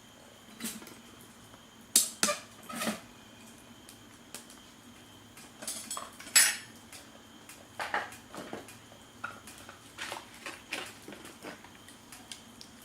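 Metal cutlery and dishes clinking and scraping in irregular, scattered knocks, the loudest about two seconds in and again a little past the middle.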